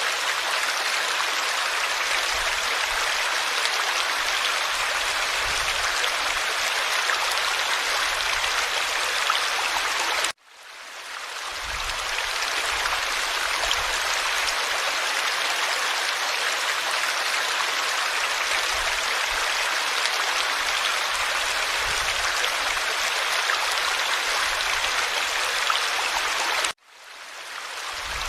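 Forest stream flowing and babbling over stones, a steady rushing of water. Twice the sound cuts out abruptly and fades back in over about a second, like a splice in the recording.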